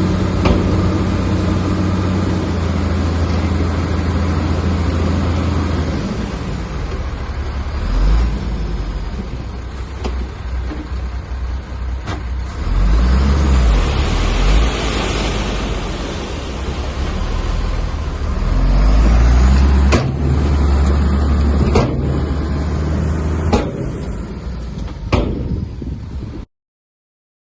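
A bulldozer's diesel engine working, its low note rising and falling several times, with a few sharp clanks in the second half. The sound cuts out abruptly just before the end.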